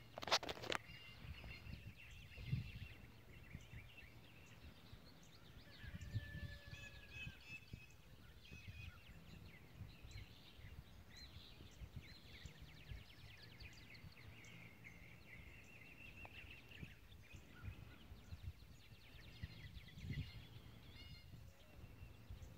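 Small birds chirping and singing faintly throughout, over a low rumble, with a sharp knock just after the start and a brief held tone about six seconds in.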